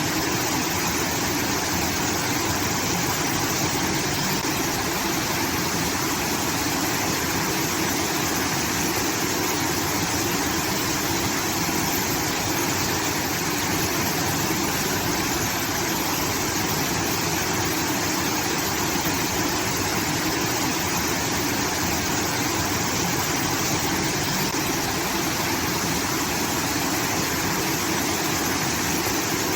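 Water pouring steadily through a rice-field irrigation outlet, a continuous waterfall-like rush.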